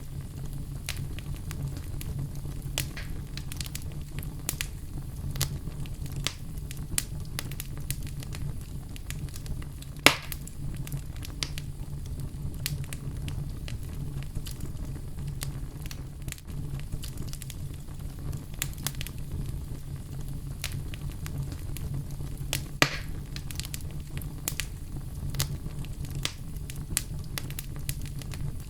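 Wood fire in a fireplace crackling steadily over a low rumble, with scattered small pops and two louder, sharper pops, one about ten seconds in and another a little past twenty seconds.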